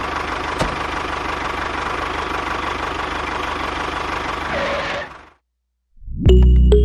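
A small motor of a miniature model construction machine running steadily, with a thin whine and one sharp click about half a second in. It fades out about five seconds in, and after a brief silence music starts near the end.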